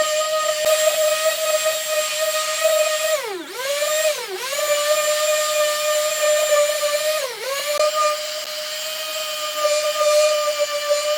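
Handheld electric power tool running at a steady high whine. It slows and drops sharply in pitch three times as it is pressed into the work, recovering each time.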